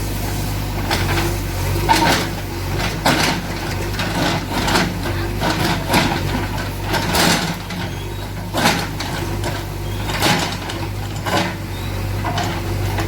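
The 76 hp diesel engine of a JCB 3DX backhoe loader runs steadily, with sharp knocks and clanks every second or so.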